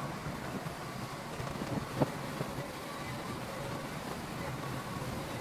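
Diesel engine of heavy earthmoving machinery running steadily, with one sharp knock about two seconds in.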